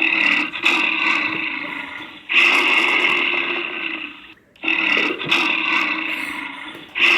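Recorded grizzly bear roaring, four long roars of about two seconds each with short pauses between them, the fourth starting near the end.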